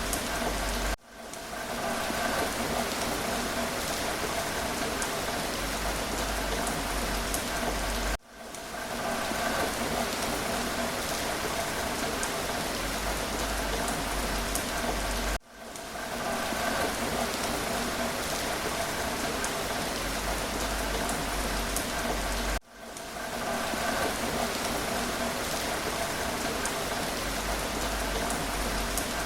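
Steady rain falling. About every seven seconds the sound cuts out for a split second and fades back in, with the same stretch repeating between the dropouts, as in a looped rain recording.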